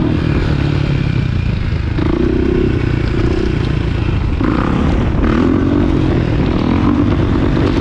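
Dirt bike engine running, its pitch rising and falling with the throttle several times.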